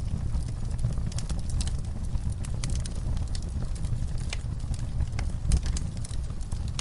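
Wood fire in a fireplace crackling: irregular sharp snaps and pops over a low, steady rumble of the flames.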